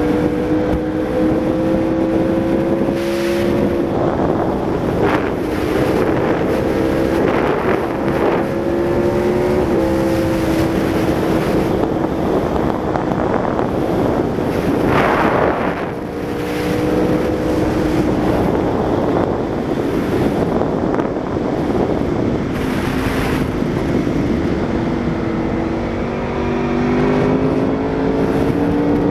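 Aprilia Tuono V4 motorcycle's V4 engine running through a Laser aftermarket exhaust while under way. The engine note climbs slowly and drops back several times, with wind buffeting the microphone now and then.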